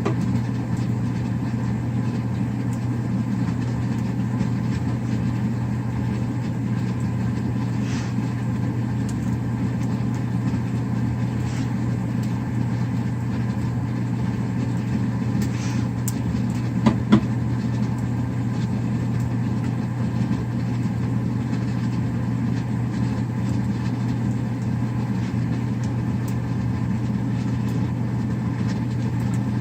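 Steady low machine hum with no change in pitch or level, broken by two brief sharp clicks about seventeen seconds in.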